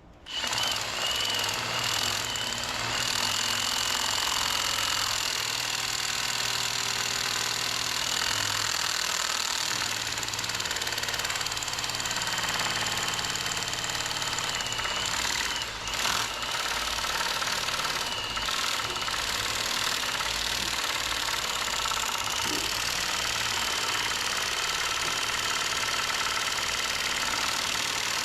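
Cordless drill running continuously, spinning a homemade oil-pump priming tool down the distributor hole of a small-block Chevy 350, with a steady whine and brief dips in speed now and then. The tool is not reaching the oil pump drive, so the pump is not being turned.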